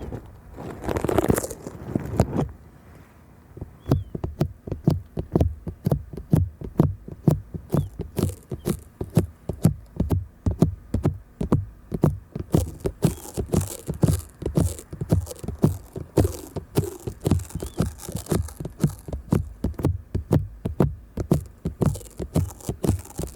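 Fingers rubbing and tapping over stickers stuck on a microphone: a rustle in the first couple of seconds, then a steady run of quick, deep, soft thumps and clicks, several a second.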